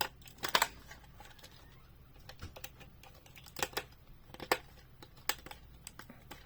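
Irregular sharp clicks and taps of a screwdriver and hard plastic packaging being handled while working loose the screws that hold a diecast model car to its package base.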